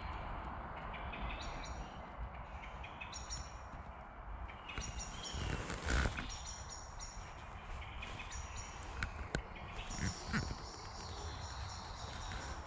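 Small woodland birds singing short, high phrases repeated every second or two over a steady background hiss, with a brief knock or rustle about six seconds in.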